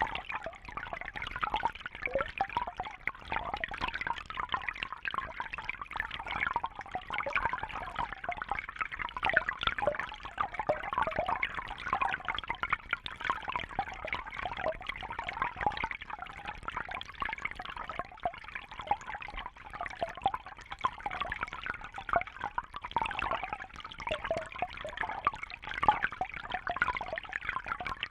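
Water trickling and bubbling steadily, a continuous busy patter of small bubbling sounds.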